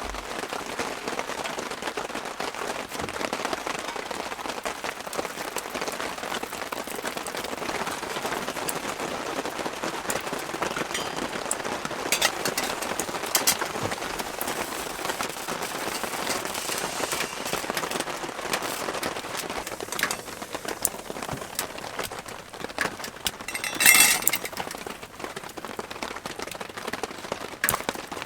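Steady rain coming down, an even hiss scattered with sharp ticks of drops. About 24 seconds in, a short, much louder burst of noise stands out.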